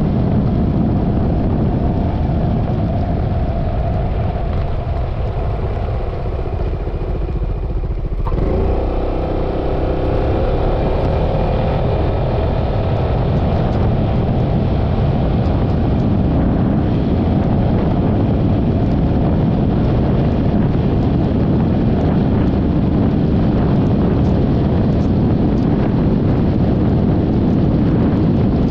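Yamaha XMAX 300 scooter's single-cylinder engine and rushing wind and road noise while riding. About eight seconds in, the engine pitch rises as the scooter accelerates, then the riding noise holds steady.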